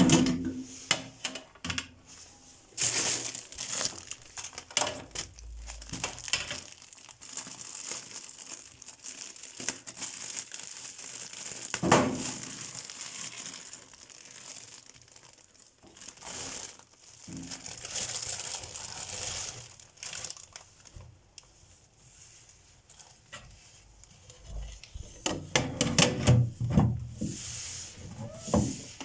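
Plastic packaging crinkling and tearing as new kitchen items are unwrapped, with scattered clicks and knocks from handling.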